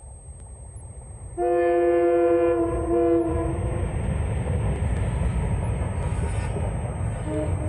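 Air horn of a pair of Indian Railways diesel locomotives sounding a long chord-like blast with a brief break, about a second and a half in, as the express comes past at speed. The locomotives and coaches then rumble by loudly, and the horn sounds again near the end.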